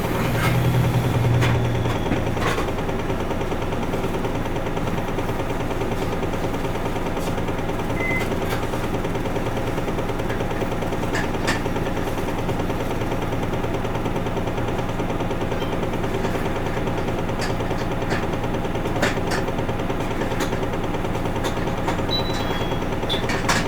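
Interior sound of an Isuzu Erga Mio city bus: its four-cylinder diesel engine runs at a steady speed, with a stronger low hum in the first couple of seconds. Occasional sharp clicks and rattles come from the cabin.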